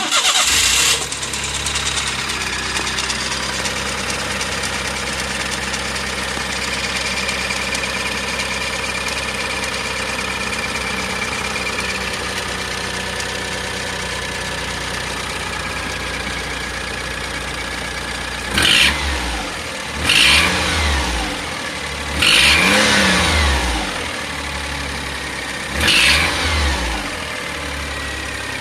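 Daihatsu Atrai Wagon's three-cylinder turbo engine starting, idling steadily, then blipped four times near the end. The harsh noise comes from a broken exhaust manifold bolt letting exhaust leak.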